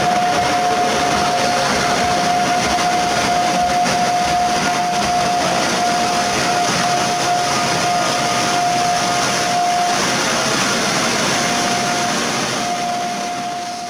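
A PKP Intercity Siemens EU44 (Eurosprinter) electric locomotive and its coaches roll slowly into the platform, arriving to stop: steady wheel and running noise with one constant high squeal held throughout. The noise fades near the end as the train slows.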